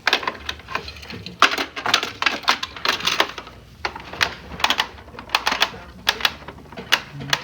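Hard plastic toy parts being handled, with quick irregular clicks and rattles throughout.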